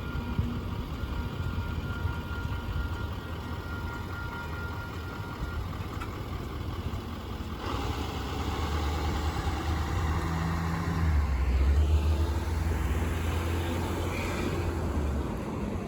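Road vehicle engine running at a rail crossing. A low engine hum builds about halfway in, with rising hiss, and is loudest in the last few seconds.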